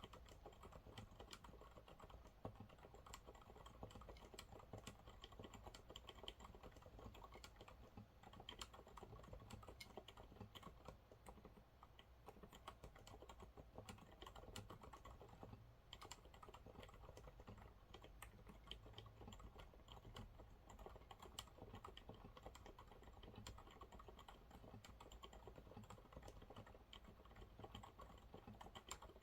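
Continuous typing on a Monsgeek MG108W mechanical keyboard with TTC silent brown switches: quiet, rapid keystrokes in an uneven, unbroken flurry.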